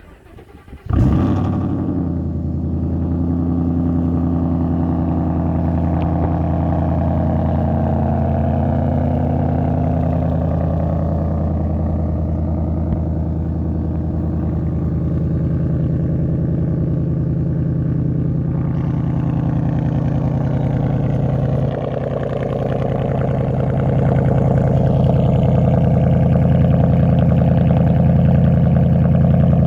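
Ford 5.0 Coyote V8 in a 2013 F-150, exhausting through a cat-back 2.5-inch dual exhaust with no muffler, starting up about a second in and then idling steadily. It drops slightly about two thirds of the way through and runs a little louder after that.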